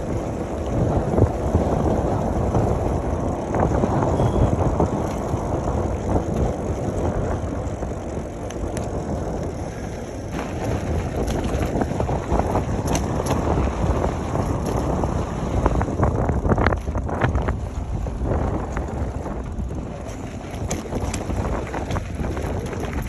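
Wind buffeting the microphone while riding a bicycle, a steady low rumble, with scattered short clicks and rattles midway through.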